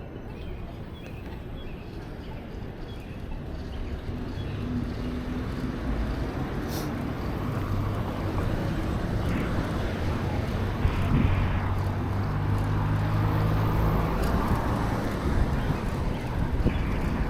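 Traffic and wind noise on a cyclist's camera microphone during a city ride, growing louder, with a motor vehicle's low engine hum from about four seconds in until about fourteen seconds.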